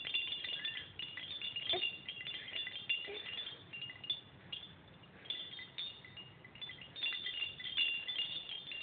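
Baby rattle shaken in bursts, giving a high, tinkling, bell-like jingle with small clicks, easing off for a couple of seconds near the middle.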